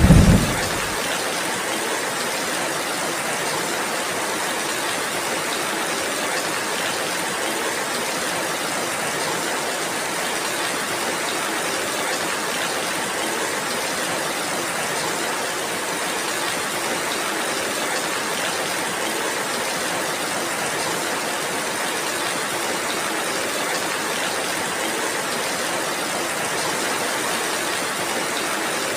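Heavy rain falling steadily, an even hiss, with the tail of a thunder rumble dying away in the first second.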